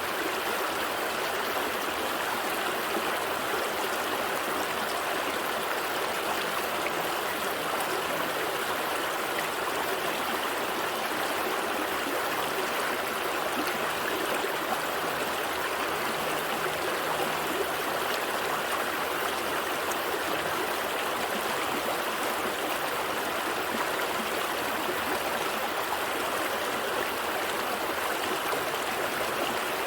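Gentle stream flowing over rocks: a steady, even rush of running water with fine trickling and gurgling.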